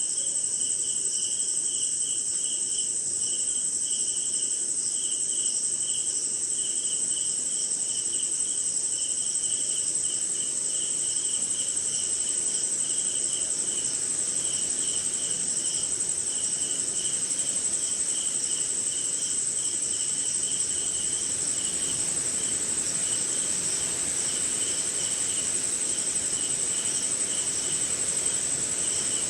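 Night chorus of crickets and other insects: one steady, very high-pitched trill over a lower, rhythmic pulsing chirp that repeats without pause.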